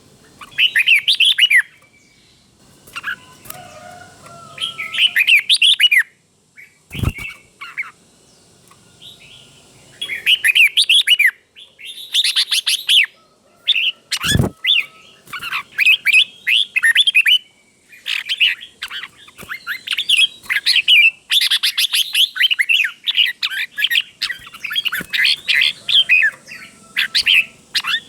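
Red-whiskered bulbul singing, with bursts of quick, clear warbled phrases. The phrases come with pauses at first and run almost without a break in the second half. Two sharp clicks are heard, about 7 and 14 seconds in.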